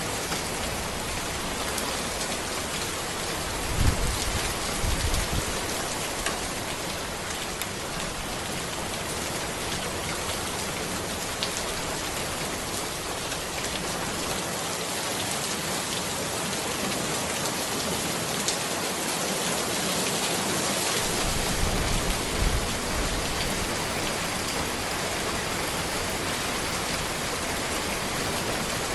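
Steady rain falling on a road, an even hiss of many drops. A few short low thumps stand out about four seconds in and again past the twenty-second mark.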